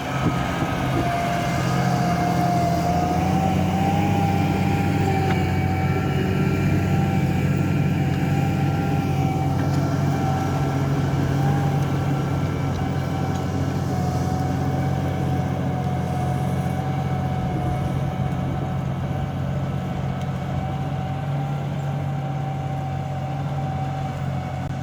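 Large farm tractor's diesel engine running steadily, with a steady whine over the low drone.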